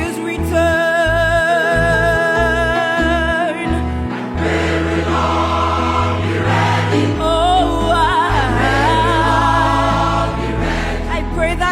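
Gospel choir singing sustained, wavering notes over a changing bass line.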